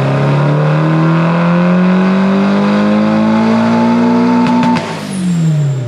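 Turbocharged Nissan SR20DET four-cylinder engine making a full-throttle dyno pull, its revs climbing steadily, then the throttle closing abruptly about five seconds in and the revs falling away. The tuners take the pull as running out of fuel at the injectors.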